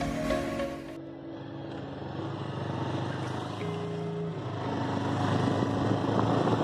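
A motor vehicle's engine running with steady rushing road and wind noise, a low engine hum rising and falling slightly; background music cuts off about a second in.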